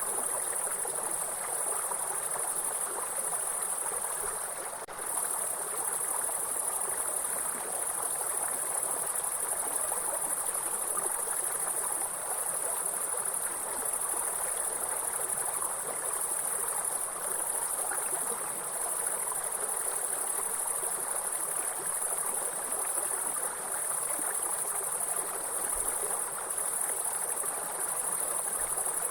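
A steady, high insect chirring over the continuous rush of a stream of running water.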